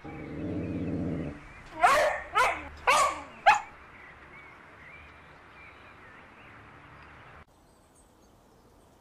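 Dog giving a low growl for about a second, then four sharp barks in quick succession.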